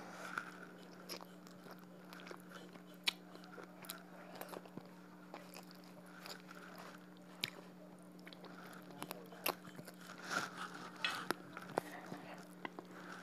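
Close-up eating sounds of a person chewing rice and duck curry eaten by hand: wet mouth smacks and sharp little clicks at irregular moments, over a steady low hum.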